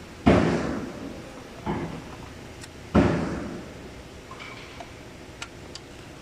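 Two loud sudden knocks about three seconds apart, each ringing away over a second or so, with a softer knock between them and a few faint clicks afterwards.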